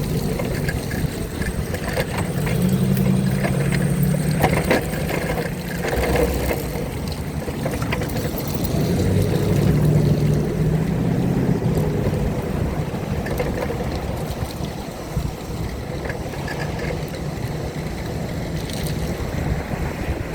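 Traffic on a rain-wet road: tyre hiss and engine hum of vehicles passing, swelling and fading twice, over steady wind noise on the microphone.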